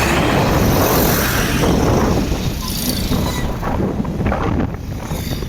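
Wind buffeting the microphone on a moving motorbike, with the engine and road noise running underneath; the gusts ease a little past halfway.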